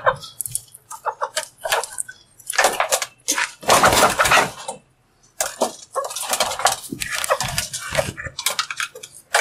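A green pet parrot in its cage making a run of harsh, scratchy noises and clattering, in irregular bursts with a brief pause near the middle.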